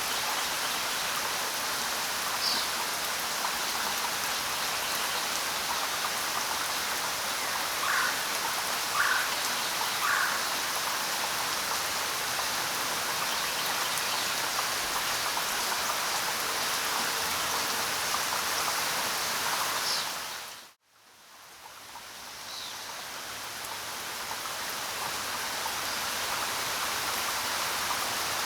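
Steady rainfall, with a few short chirps over it. About three-quarters of the way in, the rain cuts out suddenly for a moment, then fades back up over several seconds.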